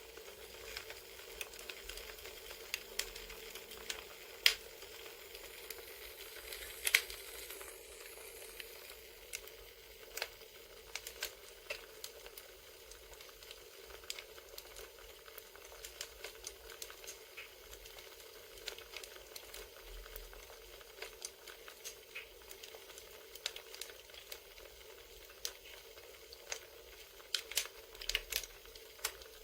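Crackling campfire: a steady hiss with irregular sharp pops and snaps, a couple of them louder.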